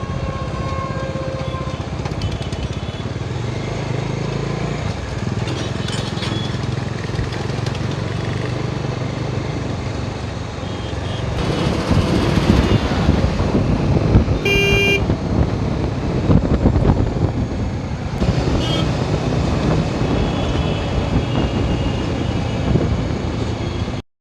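Motorcycle riding through road traffic: the engine hum and traffic noise run steadily, getting louder and rougher a little before halfway, with a single short vehicle horn toot a little past halfway.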